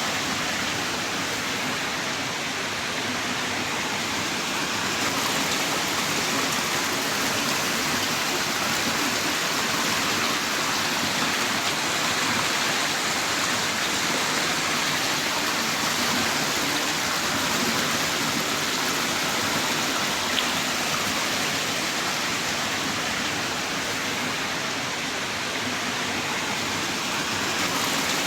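Heavy rain downpour, a steady dense hiss of rainfall with no let-up.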